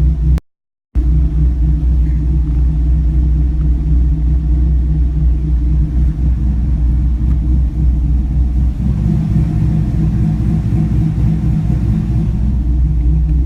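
A 5.3-litre V8 with a Texas Speed stage 4 cam, swapped into a 2004 Chevrolet Colorado, idling warm at about 925 rpm without stalling. There is a brief gap of silence about half a second in.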